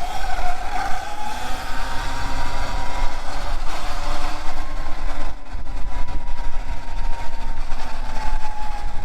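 Electric motor of a Segway X160 electric dirt bike whining while riding, its single tone rising over the first few seconds and then slowly sinking as the speed changes, over a heavy low rumble of wind and riding noise.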